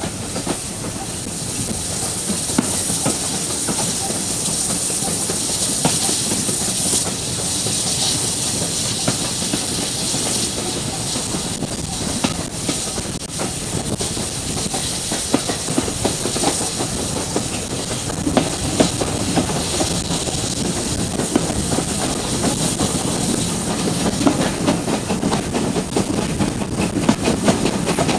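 Steam-hauled passenger train running, heard at an open carriage window: a steady rush of wind and track noise, with the wheels clicking and clattering on the rails.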